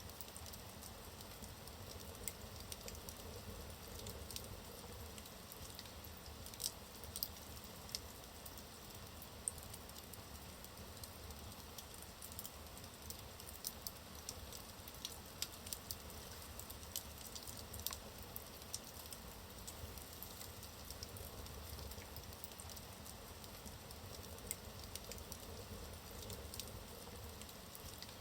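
Log fire burning in a fireplace: a soft steady hiss with frequent sharp, irregular crackles and pops of the burning wood.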